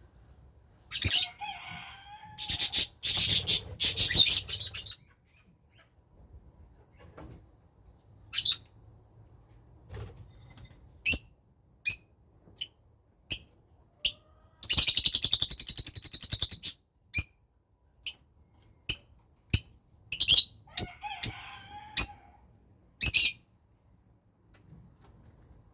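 Small pet birds squabbling: dense bursts of squawking and wing flapping in the first few seconds, then a string of short sharp chirps, with a harsh buzzing screech lasting about two seconds partway through.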